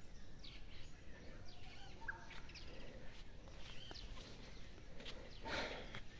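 Birds chirping faintly and on and off over steady outdoor background noise, with a short burst of noise about five and a half seconds in.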